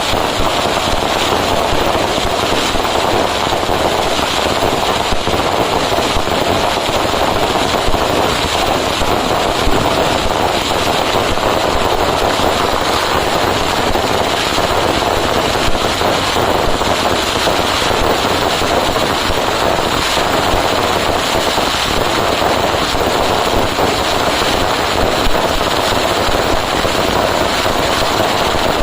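A dense, unbroken barrage of firecrackers going off, so fast that the bangs blur into one loud, steady crackling rumble with no pauses.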